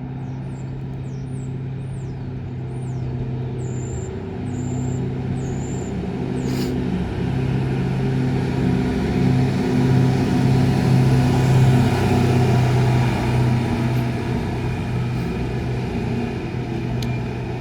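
Diesel engine of a DR75 on-track tamper running steadily as the machine passes through the station. The hum swells to its loudest about eleven seconds in, then eases as it moves away.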